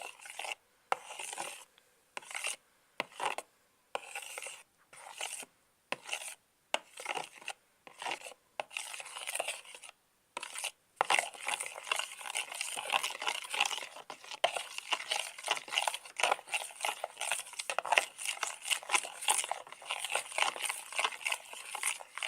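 Clear glue and water being stirred in a container, a wet scraping in short separate strokes with pauses at first, running on almost without a break from about halfway.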